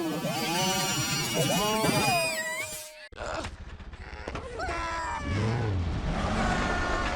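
Pitch-shifted cartoon vocal sounds, wavering and gliding in pitch, cut off abruptly about three seconds in before more gliding voice-like sounds follow.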